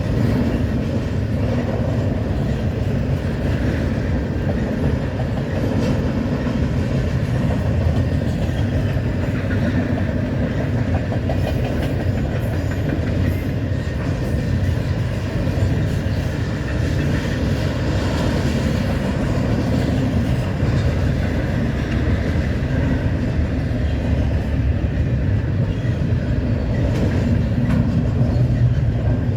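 Intermodal freight train rolling steadily past, a continuous rumble of steel wheels on the rails with fine clattering and no horn.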